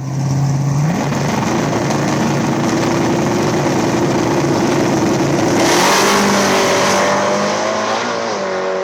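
Drag race car engine at full throttle: the note rises about a second in and then holds high and steady under heavy load, and the engine note changes about six seconds in.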